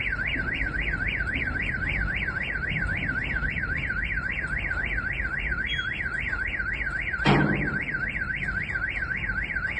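Electronic alarm siren warbling quickly up and down, about three times a second, over a steady low background noise. A brief louder knock or thud comes about seven seconds in.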